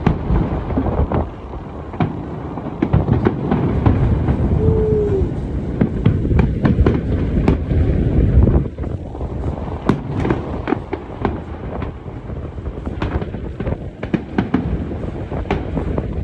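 Aerial fireworks display: a dense run of booming shell bursts with crackling, over a continuous low rumble. A brief falling whistle sounds about five seconds in.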